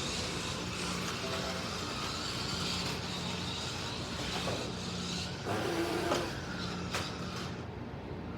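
Electric slot cars lapping the track: a steady whir of small motors and guide braids on the rails, with a few sharp clicks between about five and seven seconds in.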